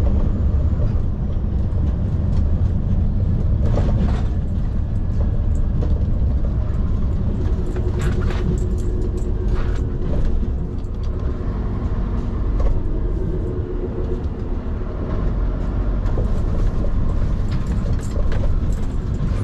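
Scania P360 XT skip lorry driving along a rough road: a steady low engine and road rumble, with a few sharp knocks and rattles from the truck body, and a faint whine in the middle stretch.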